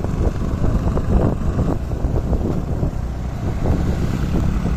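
Motorcycle running on the move, with wind rumbling on the microphone.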